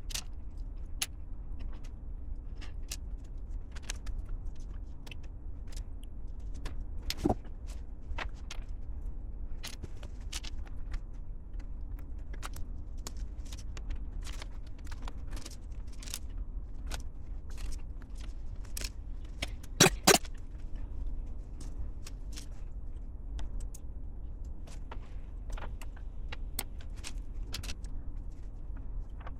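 LEGO plastic pieces clicking and rattling as they are handled and pressed together, with scattered sharp clicks over a low steady hum. The loudest is a quick pair of clicks about two-thirds of the way through.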